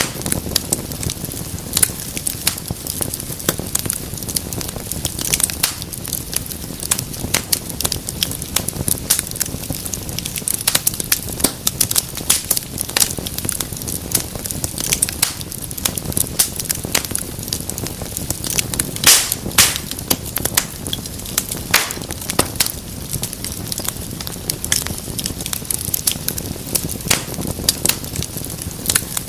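Wood fire in a fireplace crackling, with dense, irregular sharp pops over a steady low rumble of flames; a run of louder pops comes about two-thirds of the way through.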